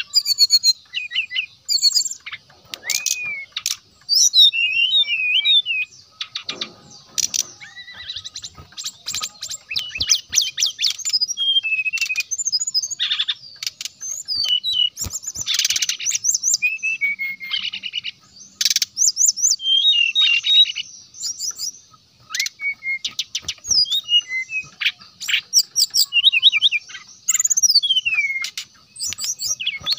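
Brown-chested jungle flycatcher in full song: a fast, varied run of rapid trills and rising and falling whistled notes, broken by short pauses.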